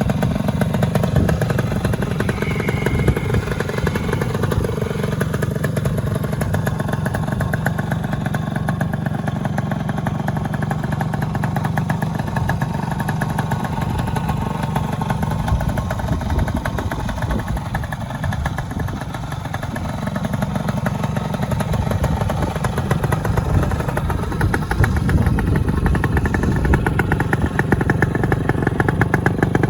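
Yamaha TY125 trials bike's single-cylinder two-stroke engine running steadily after being repaired for rough running, easing off slightly midway and running a little louder near the end.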